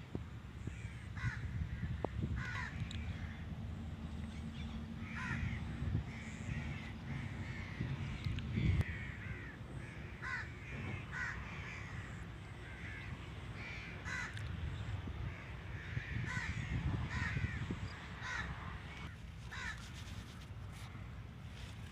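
Birds calling over and over with short, harsh, caw-like calls, several in quick succession at times, over a steady low rumble.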